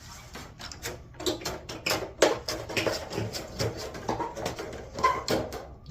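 Hand snips cutting sheet metal: an uneven, rapid run of clicking, crunching cuts as an inch is trimmed off the piece.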